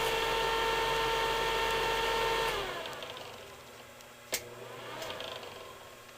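1970s bathroom exhaust fan's shaded-pole motor running with a steady hum, then cut off about two and a half seconds in, its pitch sliding down as the blade coasts to a stop. A single sharp click a little after the middle.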